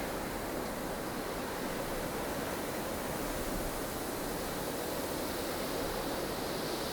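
Strong wind of a blustery snowstorm rushing steadily, a dense hiss that swells and eases slowly without gusts breaking through.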